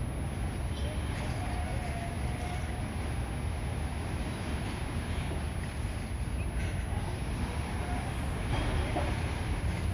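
Steady low rumble of outdoor traffic and wind noise on the microphone, with a faint steady high whine and a few faint, distant wavering calls or voices.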